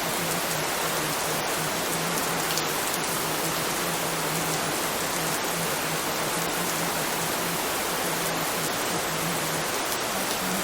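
Steady rain, an even hiss with no let-up, with a low hum flickering on and off beneath it.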